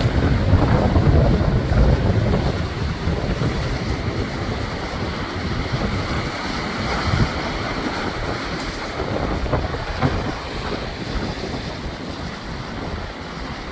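Rough Pacific surf breaking on a rock breakwater, with strong wind buffeting the microphone as a low rumble. The surge is strongest in the first couple of seconds and eases a little after.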